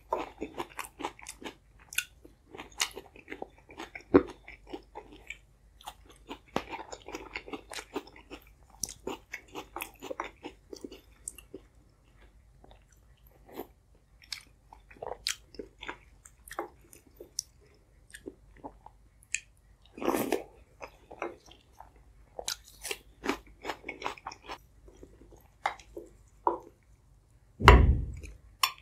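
Close-miked chewing of soft, wet food (boiled egg and soup-soaked egg-and-potato mush), with irregular wet smacks and mouth clicks. A single low thump comes near the end.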